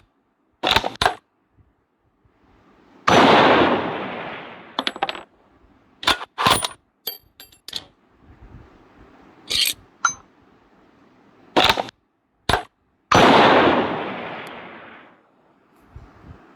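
Kar98 bolt-action rifle being handled: metallic clicks and clacks of the bolt and parts being worked, with two sudden loud shots about ten seconds apart, each trailing off over about two seconds.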